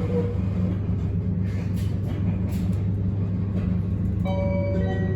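Abukuma Express 8100 series electric train running, with a steady low hum and rumble. A few steady tones come in about four seconds in.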